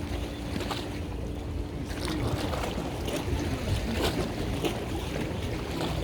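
Boat motor running with a low rumble while water splashes around the hull. A steady hum fades out about two and a half seconds in.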